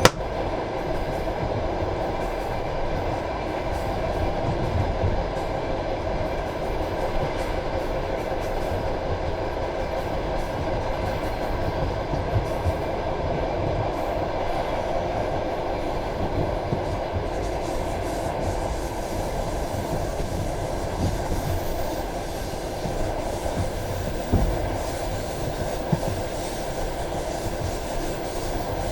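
Passenger train carriage running along the track: a steady rumble of wheels on rail, with a few sharper clacks from rail joints, one about halfway through and two more near the end.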